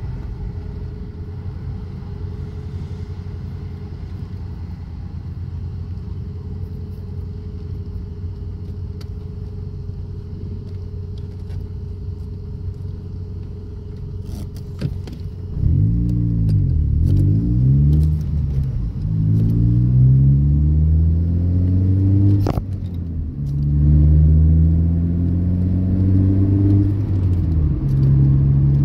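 Car engine running steadily at low revs, then from about halfway revved up and down again and again as the accelerator is pumped, its pitch rising and falling in a string of surges. A few sharp clicks around the middle.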